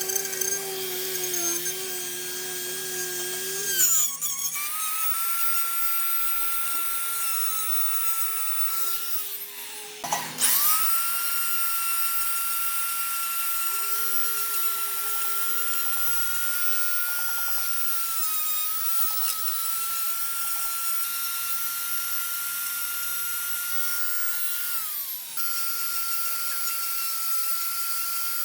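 Small high-speed electric power tool whining steadily as it works wood, its pitch sagging briefly now and then under load. About ten seconds in it spins down and starts up again.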